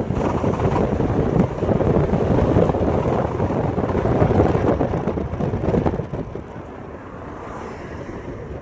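2004 Ford Freestar minivan making a loud, rough noise while accelerating, easing off about six seconds in. The owner first suspected a bad CV axle, but new axles did not cure it.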